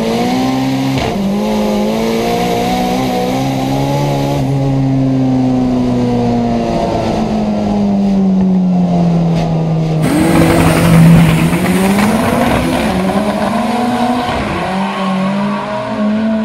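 Turbocharged VW Saveiro pickup's engine at full throttle on a drag run, heard from inside the cabin. The engine note dips sharply at two quick gear shifts in the first second, then holds high revs. About ten seconds in, a louder rushing noise comes in and the engine note drops and climbs again.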